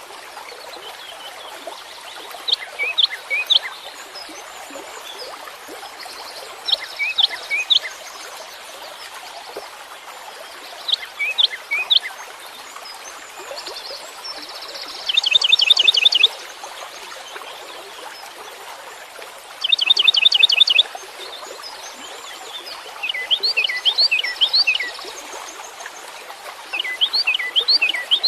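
Songbird singing short phrases of quick, high chirping notes every few seconds, with two longer rapid trills partway through, over a steady background hiss.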